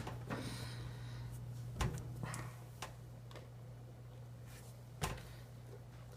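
Quiet chewing with a few soft mouth clicks from someone eating a cold bacon burger, over a steady low electrical hum.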